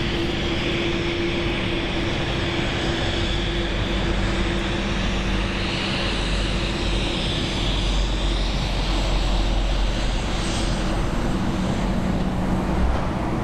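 Embraer E190 regional jet's two GE CF34 turbofan engines running as the airliner taxis close by: a steady jet hiss over a held hum, with the low rumble swelling from about halfway through.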